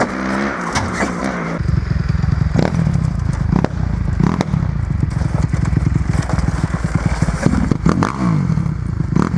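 Dirt bike engine running with a fast, steady low beat, broken by a few sharp clicks or knocks.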